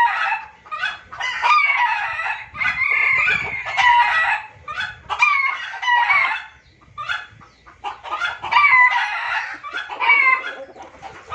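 Junglefowl calling excitedly: a dense, fast run of overlapping clucks and crowing, with a short lull just past the middle. It is a lure call used to draw wild junglefowl in for trapping.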